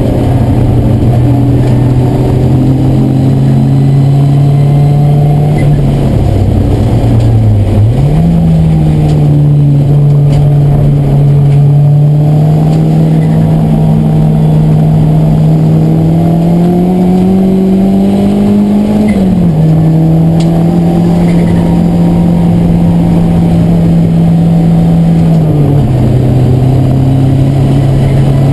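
Race car's engine heard from inside the cabin while lapping, a loud steady note that shifts in sudden steps with the driver's gear changes. It dips about six seconds in and jumps up near eight seconds. It then climbs slowly, drops sharply a little after nineteen seconds, and drops again near twenty-six seconds.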